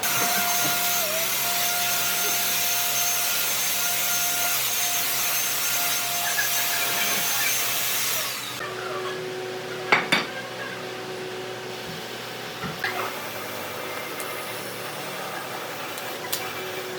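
Electric power tool working wood, running with a steady whine and hiss, then cutting out about eight and a half seconds in; a quieter steady hum carries on after it, with a couple of sharp knocks.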